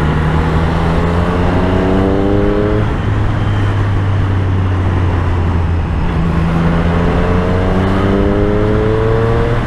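Triumph Street Triple's three-cylinder engine accelerating. Its pitch rises, drops at a gear change about three seconds in, runs steady for a few seconds, then climbs again through the next gear near the end.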